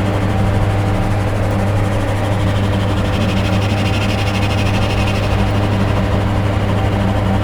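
Dark ambient electronic drone: a loud, steady low hum with several held tones above it under a layer of noisy hiss, a higher rasping band swelling up in the middle and fading again.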